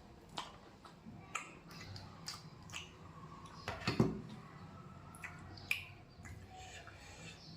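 A person eating close to the microphone: chewing and lip smacks, with scattered sharp wet clicks. The loudest comes about four seconds in.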